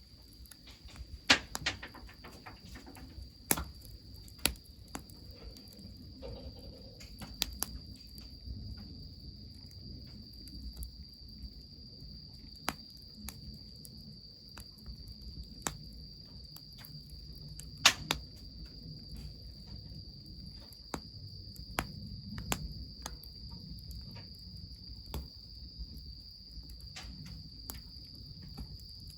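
Wood fire crackling, with sharp irregular pops, over a low steady rumble and the continuous high trill of crickets.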